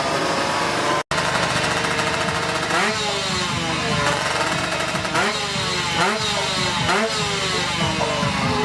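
Drag motorcycle engine being revved, the throttle blipped about five times so the pitch jumps up sharply and sinks back each time, with a brief cut in the sound about a second in.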